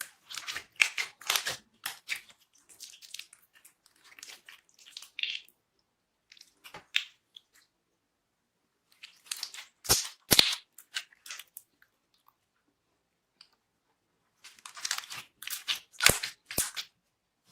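Glossy slime being squeezed and pressed by hand, giving rapid wet clicks and pops in several bursts with silent pauses between them.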